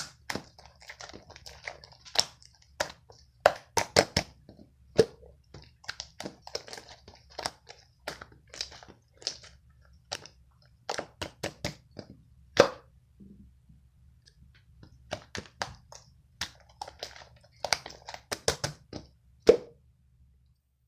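Irregular clicks, taps and light knocks, as of small objects being handled, over a faint low steady hum that cuts off near the end.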